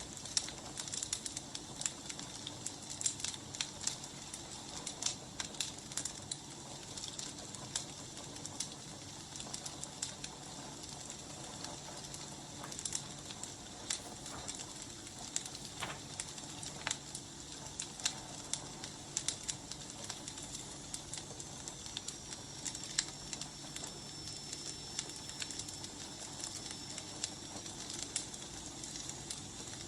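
Firewood burning, crackling with irregular pops and snaps over a steady hiss. A faint, thin, high whistle runs through the second half.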